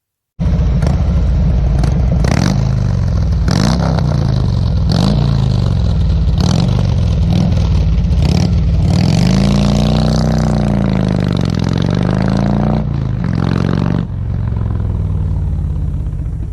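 Motorcycle engine revving and accelerating, its pitch climbing and breaking off again and again about every second and a half, like shifts up through the gears. Then comes a longer rise and fall, and the level drops about two-thirds of the way through.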